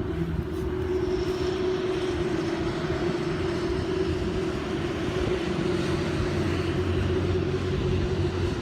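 A steady engine drone with a constant low hum, holding at an even level over a background hiss.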